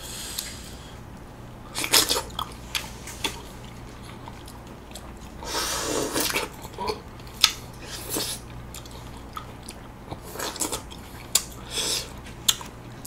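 Golden kiwi being bitten and chewed: scattered short clicks and wet mouth sounds, with a longer noisy stretch about halfway through.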